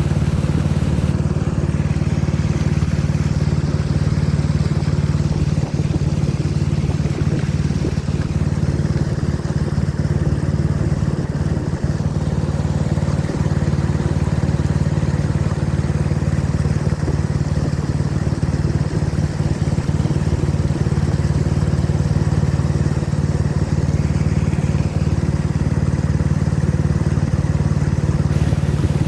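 Boat engine running steadily at constant speed, a low, even drone with a rushing noise over it.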